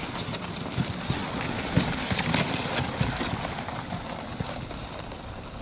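A sled dog team and its loaded sled moving over packed snow: paws, boots and sled runners make quick, irregular crunches and scrapes. The sound fades toward the end as the team moves away.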